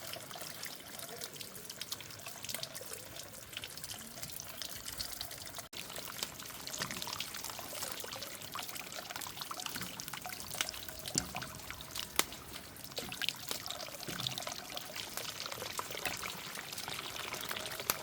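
Water pouring and trickling, with many small splashes.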